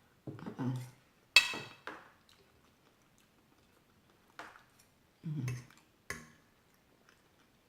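Eating sounds: a sharp metallic clink of a utensil against a plate about a second and a half in, the loudest sound, with a few softer clicks, chewing, and two short closed-mouth hums.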